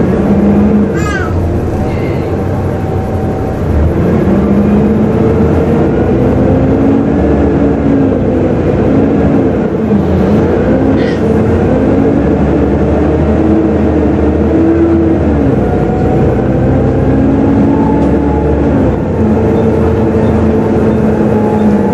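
Volvo B7TL double-decker bus heard from on board, its 7-litre six-cylinder engine and driveline running with a hoover-like whine. The whine rises and falls in pitch again and again as the bus pulls away and changes speed, and it gets louder about three and a half seconds in.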